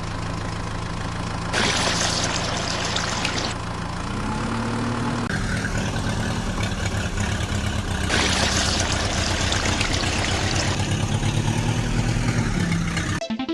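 A vehicle engine running steadily. It rises in pitch about four seconds in and settles back down near the end. Two stretches of hissing noise lie over it.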